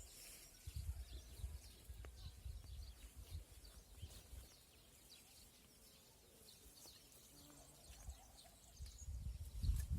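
Small birds chirping faintly, with many short calls scattered throughout, over irregular low rumbling bursts that are loudest about a second in and again near the end.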